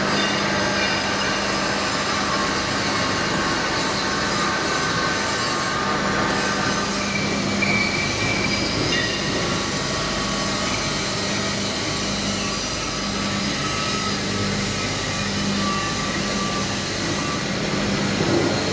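Roller welding positioner running, turning a drum on its rollers: a steady machine noise with a constant low hum and faint high squealing tones that come and go.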